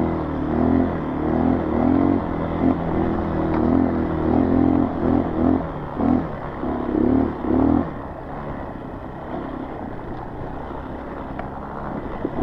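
Honda CRF230 dirt bike's single-cylinder four-stroke engine on a climb, revving up and down in repeated short throttle surges, then settling to a lower, quieter run about eight seconds in.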